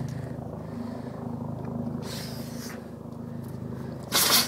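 Dog making a low, steady rumbling sound through its nose, with a softer puff of breath about two seconds in and a short, sharp sneeze near the end, the loudest sound.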